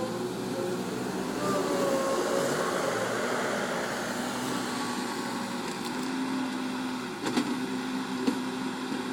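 Bulldozer's diesel engine running steadily, its pitch drifting slightly as the revs change, with a few sharp knocks near the end.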